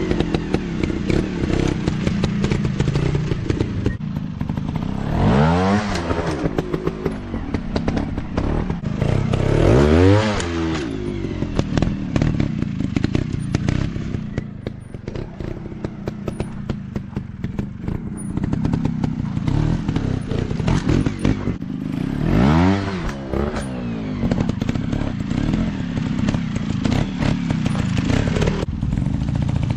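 Dirt-bike engines running, revved up and back down about four times, with rattling and thuds from the bikes over rough ground.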